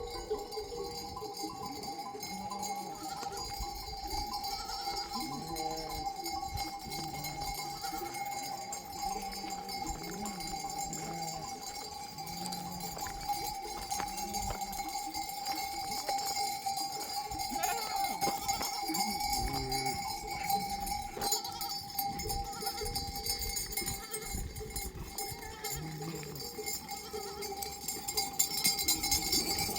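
Bells on a grazing flock of sheep and goats clanking continuously, with occasional short animal calls.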